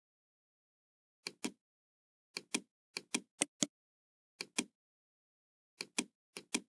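Computer mouse clicking, mostly in quick pairs of two clicks, about fourteen clicks in all at irregular intervals.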